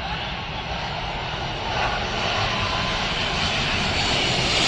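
Jet engines of a Boeing 777 on its landing approach: a steady jet noise that grows louder about two seconds in as the plane comes closer.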